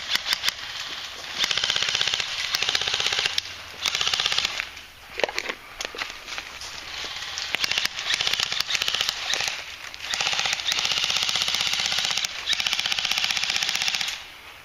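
Airsoft electric rifles firing on full auto: long bursts of rapid clicking rattle lasting one to four seconds each, with short pauses between, the longest two near the middle and toward the end.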